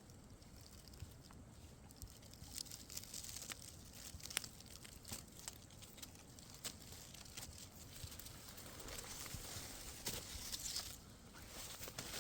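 Faint rustling and crackling, with scattered sharp clicks.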